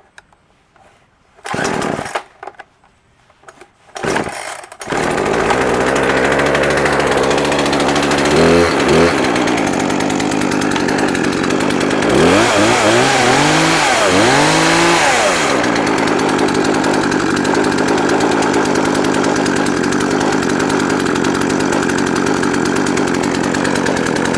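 Poulan 42cc two-stroke chainsaw being pull-started: two short pulls on the cord, catching on the second about five seconds in. It then runs at idle, is revved briefly, then blipped up and down several times, and settles back to a steady idle.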